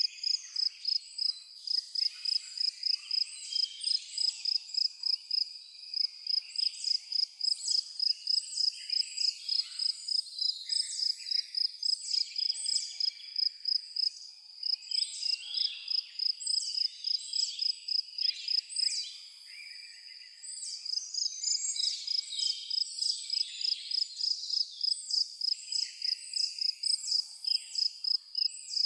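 A cricket chirping steadily in a high, even pulse of about two or three chirps a second, easing off briefly about two-thirds of the way through, while several birds call and twitter in short, varied notes.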